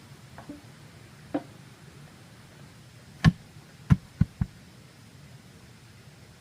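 Sharp knocks of a tool striking bamboo: one lighter blow, then four loud ones, the last three in quick succession.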